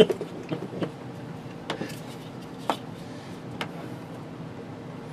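Sharp clicks and taps of small tools and wiring parts being handled while power leads are connected. The loudest click comes right at the start, a few more follow in the first second, and then single clicks come roughly once a second, all over a steady low hum.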